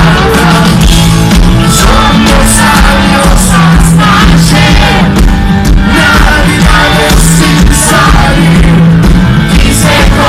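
Live rock band playing loudly with a lead singer's vocals, shouts rising over the music.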